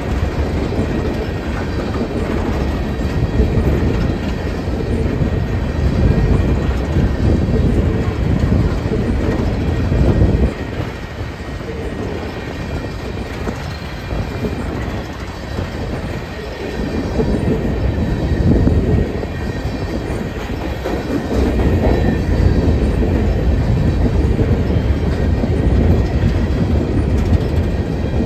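Freight train of aluminium coal hopper cars rolling past at a grade crossing: a steady low rumble of steel wheels on the rails with clacking over the joints, easing for a few seconds about a third of the way through and then building again.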